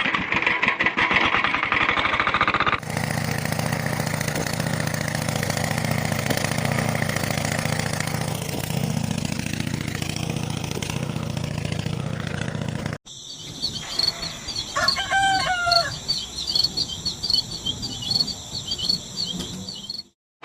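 Rapid mechanical ticking, then a small engine running steadily. After a sudden cut, a rooster crows once over continuous high-pitched chirping.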